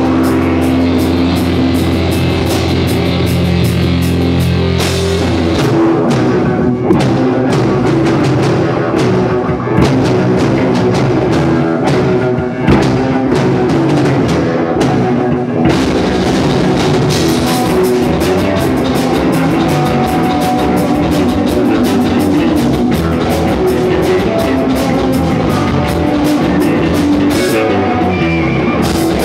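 Rock band playing loud, with drum kit and guitar; a low note is held for about the first five seconds, then the drums play busily over the guitars.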